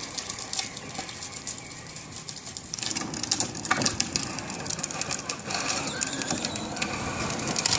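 Battery-powered ride-on toy Mustang driving off, its small electric motor running with many small clicks and rattles from the plastic wheels. It gets louder about three seconds in.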